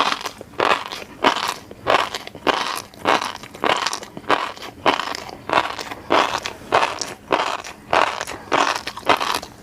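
Close-miked chewing of a mouthful of fish roe: wet, crunchy chews in a steady rhythm, a little under two a second.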